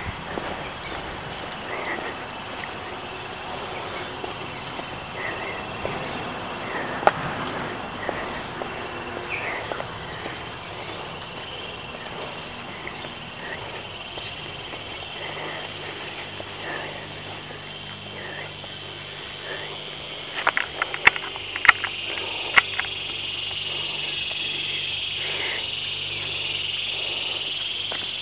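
Outdoor chorus of insects buzzing steadily at a high pitch, with many short chirping calls scattered over it. A second, lower buzzing swells in about two-thirds of the way through, and a few sharp clicks come just before that.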